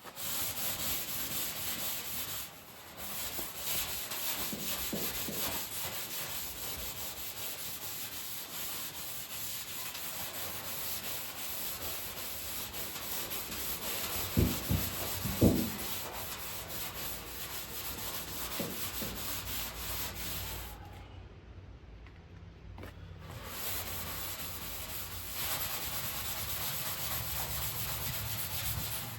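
An abrasive scrubby pad rubbed rapidly back and forth over the bare steel of a 1967 VW Beetle hood, knocking down surface rust. The rasping scrubbing runs on with a pause of about two seconds about three-quarters through, and two short, sharp knocks a second apart about halfway.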